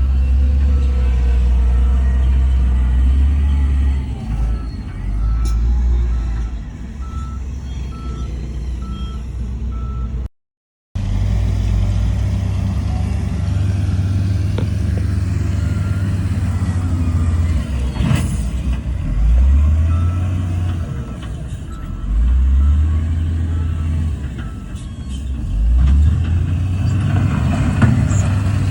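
Diesel engines of heavy earthmoving equipment running and revving, their pitch rising and falling several times, with a reversing alarm beeping about twice a second for a few seconds at a stretch. The sound cuts out completely for about half a second around the middle.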